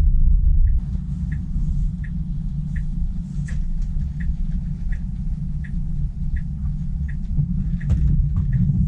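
Tesla's turn-signal indicator ticking steadily, about one tick every 0.7 seconds, over the low rumble of road noise inside the car's cabin, with a faint hiss of rain.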